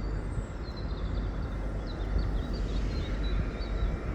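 Steady low rumble of trains idling in a station, with an irregular run of short high chirps from about half a second in until near the end.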